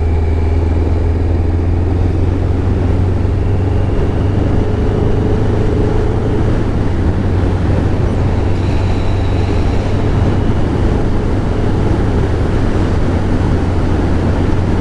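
1996 Kawasaki Ninja ZX-11's inline-four engine running at a steady speed while riding: a steady low engine drone under a constant rush of wind noise.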